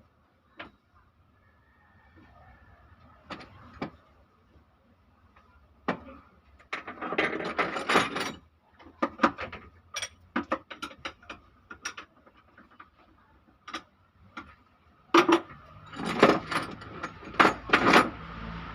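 Hand-tool work on an engine being stripped down: scattered metal clinks and taps, with two runs of rapid ratchet-like clicking, about seven and sixteen seconds in.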